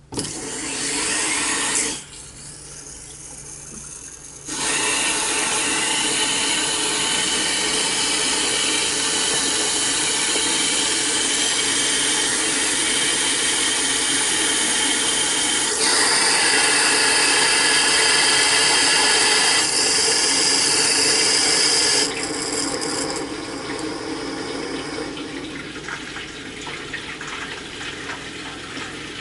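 Water rushing through the opened supply line into a newly installed water heater tank as it fills. A steady hiss with a faint whistle drops away about two seconds in, comes back about four and a half seconds in, and eases off near the end.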